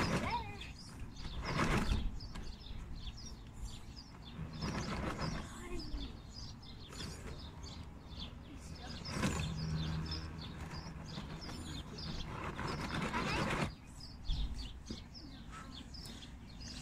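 Small birds chirping and calling throughout, with several louder bursts of rushing noise a few seconds apart.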